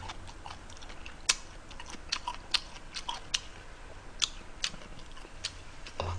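A person chewing a mouthful of ramen noodles close to the microphone, with irregular sharp mouth clicks and smacks.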